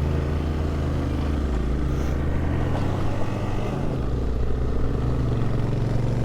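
Hero XPulse motorcycle's single-cylinder engine running steadily under way, with road and wind noise; the engine note shifts about halfway through and returns near the end.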